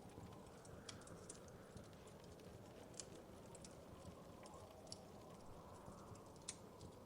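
Wood fire crackling faintly: irregular sharp pops and snaps, the loudest near the end, over a low steady rumble.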